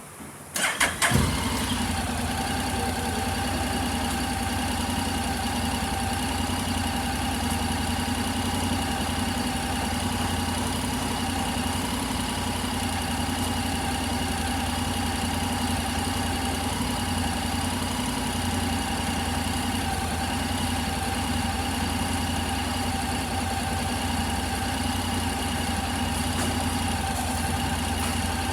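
Honda NC750X DCT's parallel-twin engine turned over by the electric starter about half a second in, catching within a second, then idling steadily.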